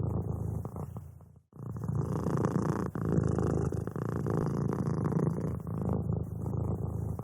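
Domestic cat purring steadily close up, a low rumble that breaks off briefly about a second and a half in and then carries on.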